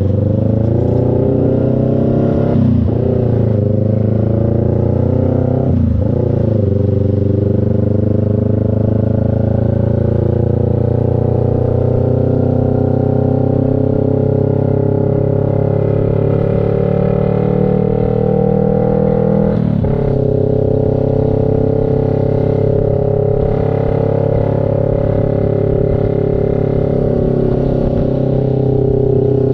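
CF Moto NK400's two-cylinder engine running under way: brief dips in engine pitch about three and six seconds in, a slow climb in revs, a sudden drop at a gear change near twenty seconds, then steady cruising.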